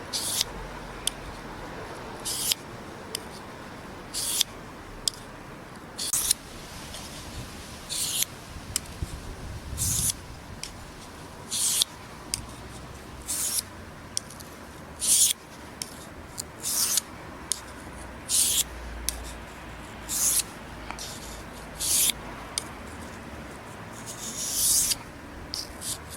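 Knife blade stroked across a 1000-grit Japanese water stone: a short scraping swish about every two seconds, with fainter scrapes in between.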